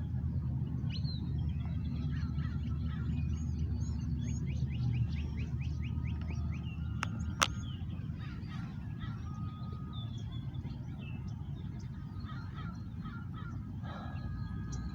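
Birds calling and chirping, with a quick trill of many rapid notes about four to six seconds in, over a low steady rumble. A single sharp click sounds about seven seconds in.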